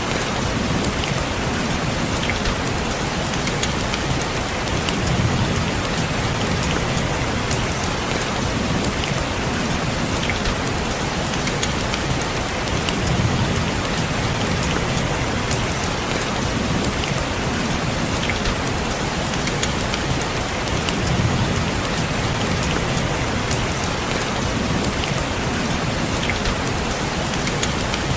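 Steady rain falling on a window pane, with single drops ticking sharply through it. A low rumble swells and fades about every four seconds.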